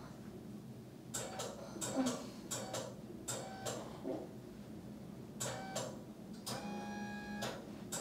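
A series of short, squeaky rubbing strokes of a massage therapist's hands working over skin, in quick clusters, with one longer stroke near the end.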